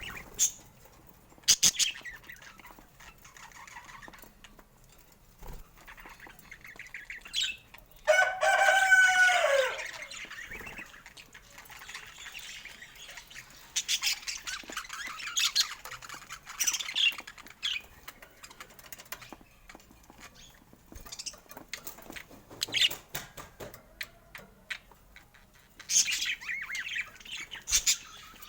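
Birds chirping in short, scattered bursts. About eight seconds in comes one loud crow, about two seconds long, falling in pitch at its end: a rooster crowing.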